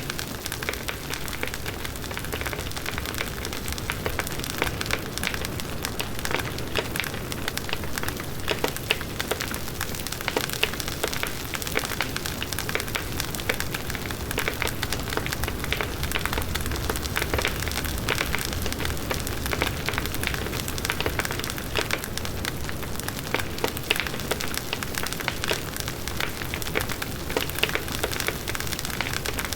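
Large wood bonfire burning steadily, the logs crackling and popping in many small sharp snaps over the low rush of the flames.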